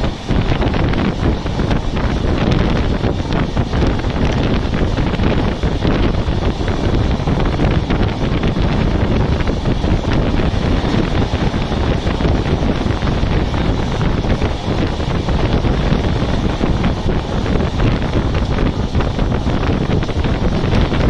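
Wind buffeting the microphone at the open door of an LHB passenger coach running at speed, over the steady rumble of its wheels on the track.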